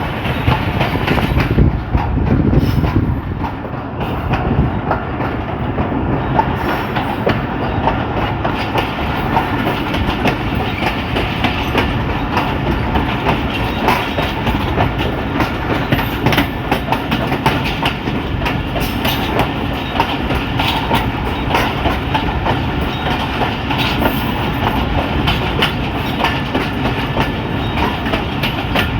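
Train running along the track: a steady rumble with a continuous clickety-clack of wheels over the rails.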